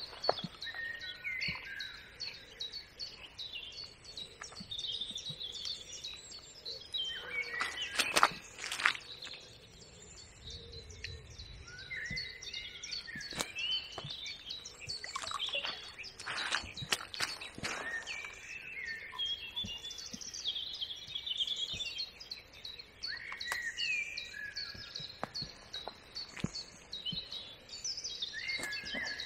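Songbirds singing in short, repeated warbling phrases over a steady outdoor background. A few sharp knocks or clicks stand out, the loudest about eight seconds in and more around sixteen to eighteen seconds.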